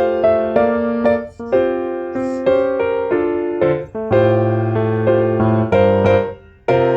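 Background piano music: a gentle melody of single sustained notes and chords, each struck note fading, with two short breaks in the phrasing.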